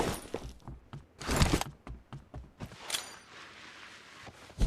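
Shooter video game sound effects: a loud bang about a second and a half in, a smaller one about three seconds in, scattered clicks between them, and a sharp hit near the end.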